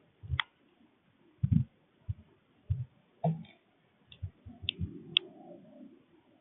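Irregular clicks and dull knocks, about a dozen spread unevenly, from birds feeding at a backyard feeder.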